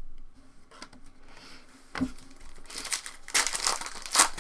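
Foil trading-card pack wrapper crinkling and tearing as a pack is opened, loudest in the last second and a half, after a single tap about two seconds in.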